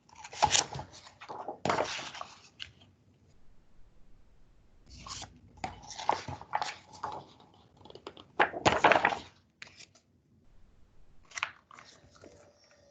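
Pages of a picture book being turned and handled, paper rustling in several short bursts with pauses between.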